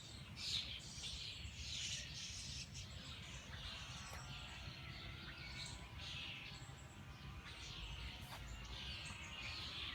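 Faint bird song: several songbirds chirping repeatedly, short high notes that come again and again, over a steady low rumble.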